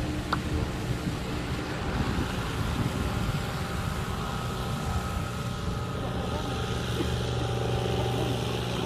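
A steady engine drone with a few faint steady tones, under wind noise on the microphone.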